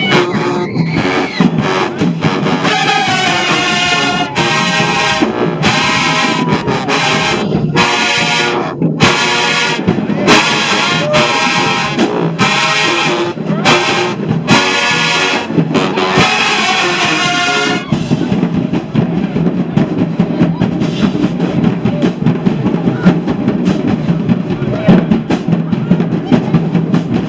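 Marching band playing loudly: brass horns in short rhythmic phrases over drums, then about two-thirds of the way through the horns stop and the drumline plays on alone.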